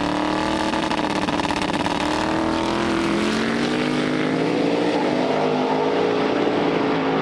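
Car engine accelerating through the gears: its pitch climbs steadily, drops at a gear change about three seconds in and again about five seconds in, then climbs again.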